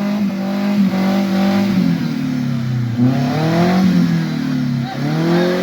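Off-road vehicle's engine running at a steady pitch, then revving, its pitch dropping and climbing again from about two seconds in and once more near the end.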